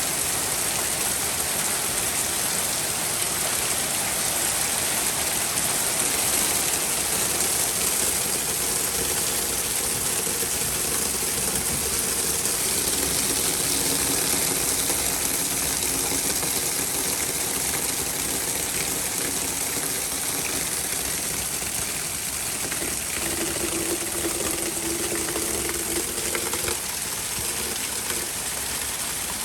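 Heavy rain pouring down, a steady dense hiss. From about ten seconds in, a faint low hum of a few steady tones runs underneath and stops near the end.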